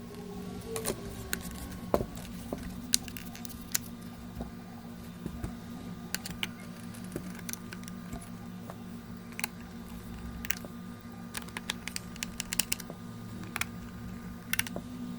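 Scattered light clicks and taps of small parts being handled on a workbench, over a steady low hum.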